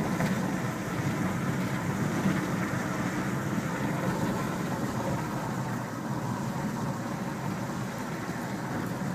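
Steady road and engine noise of a car driving at a constant pace.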